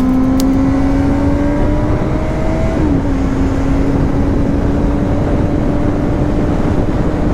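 Sport motorcycle engine under way, its note rising slowly, dipping briefly about three seconds in, then holding steady. Heavy wind rush over the microphone throughout.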